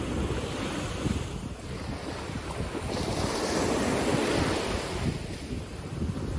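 Ocean surf washing in, the wash swelling about midway, with wind buffeting the microphone in low rumbling gusts.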